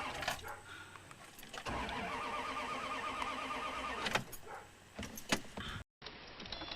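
A car engine cranking on its starter motor for about two and a half seconds without catching, then stopping, followed by a few sharp clicks.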